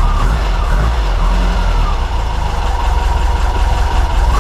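VW Beetle's air-cooled Type 4 flat-four engine with twin Dellorto DRLA carburetors running steadily, just started on a newly fitted electronic ignition that replaces a failed Pertronix unit.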